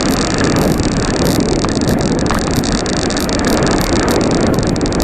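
Steady rush of wind and road noise from a bicycle on the move, with wind on the microphone.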